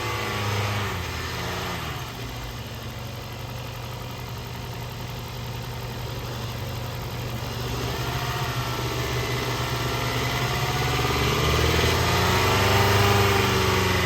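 2016 Hyundai Sonata 2.4-litre inline-four engine running during a run test. It drops back to a steady idle in the first two seconds, then the revs climb gradually from about eight seconds in and ease off slightly near the end.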